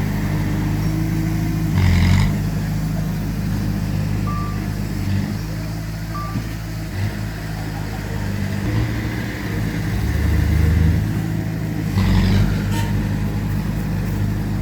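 Diesel engines of heavy earthmoving machinery running steadily under load, with two brief louder surges: one about two seconds in and one near the end.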